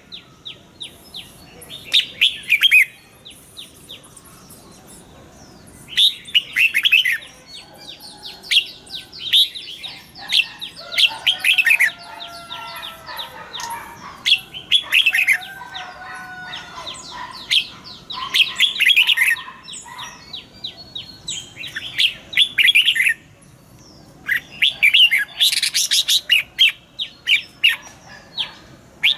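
Red-whiskered bulbuls singing: bursts of quick, high chirping notes every second or two, with some lower slurred whistles about a third of the way through.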